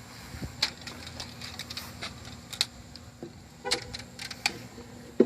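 Scattered clicks and light taps of hands and tools working at a honeybee hive cutout, irregular and a few to the second, over a faint steady low hum.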